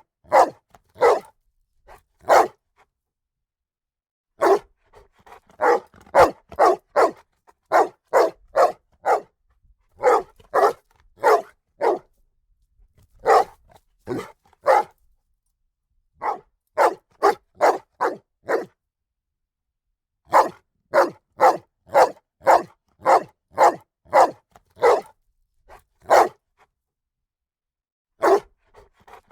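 A dog barking in quick runs of sharp barks, about three a second, broken by pauses of one to two seconds.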